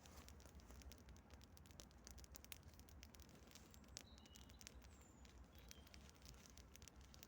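Campfire crackling: frequent small, sharp, irregular pops over a faint low hiss. A few faint short bird chirps come in about midway.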